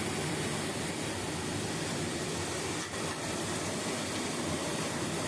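Heavy rain pouring down in a strong wind, a steady dense hiss.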